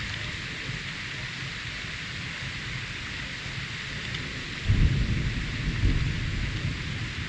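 Steady heavy rain hissing, with a low rumble of thunder rising suddenly about two-thirds of the way in and slowly dying away.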